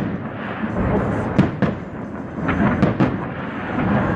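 Aerial fireworks shells bursting overhead: a rolling rumble of booms and crackle, with a quick run of sharp bangs in the middle.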